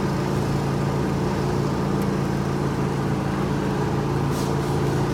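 Engine running steadily at a constant speed, a low even hum with no revving.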